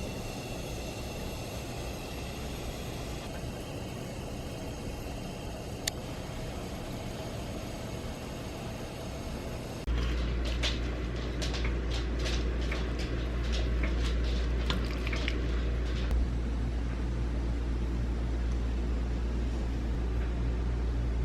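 Steady road and engine noise inside a moving car's cabin; about ten seconds in the low rumble gets louder, with a run of light clicks and taps for several seconds.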